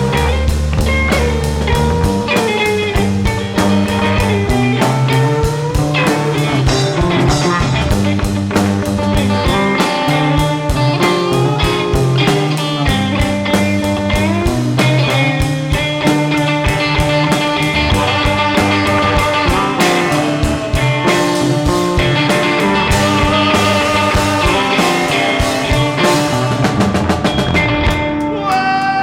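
Rock band playing an instrumental passage: guitar over a moving bass line and a steady drum beat.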